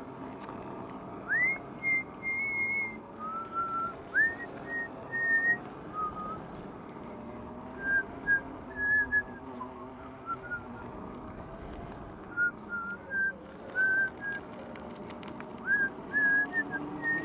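A person whistling a tune: short notes, many swooping up into a briefly held pitch, in phrases that rise and fall, over a low wavering hum.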